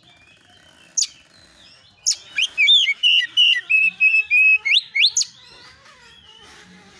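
Oriental magpie-robin singing: one sharp upward-sweeping note about a second in, then a rapid run of loud whistled notes and steep rising sweeps from about two seconds to just past five, with only faint notes after.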